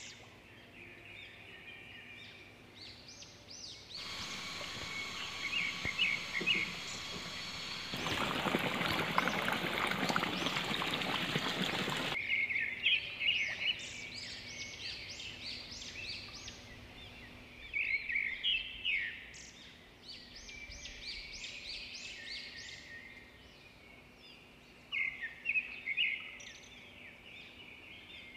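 Birds chirping and calling in quick repeated high-pitched series. Between about four and twelve seconds in, a steady rushing noise covers them, grows louder partway through, then cuts off suddenly.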